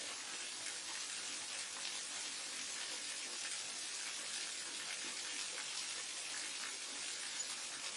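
Steady rushing of a waterfall: an even hiss of falling water that holds level throughout.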